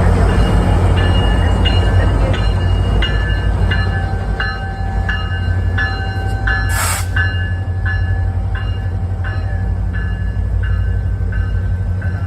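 MARC passenger train with GP40 and MP36 diesel locomotives running: a steady diesel rumble with a bell-like ringing that repeats about twice a second, and one short hiss about seven seconds in.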